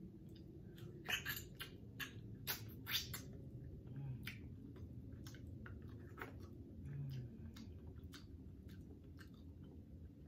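Close-miked chewing and biting of air-fried Cornish hen meat, with sharp wet mouth clicks and smacks, several in quick succession about one to three seconds in.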